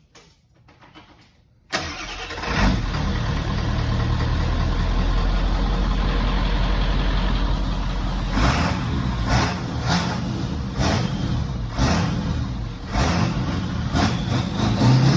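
Ford 7.3L Powerstroke V8 turbo-diesel cranking and starting about two seconds in, then running loudly through a new 5-inch cat-back exhaust dumped ahead of the rear axle, with a string of short louder bursts about once a second in the second half.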